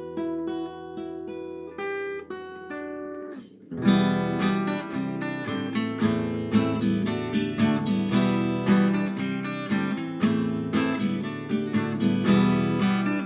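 Acoustic guitar playing an instrumental intro: single picked notes at first, then, after a brief break about four seconds in, steady strummed chords.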